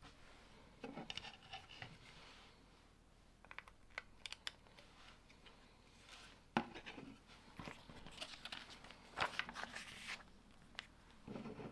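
Plastic Lego bricks being handled and pressed together by hand: scattered clicks and rustles, with one sharp click about six and a half seconds in.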